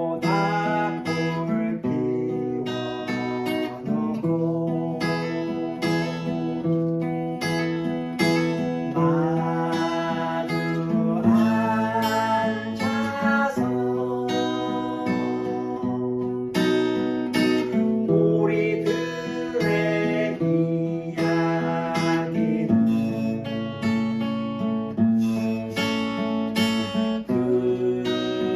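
Acoustic guitar playing a piece of music, plucked chords and a melody line.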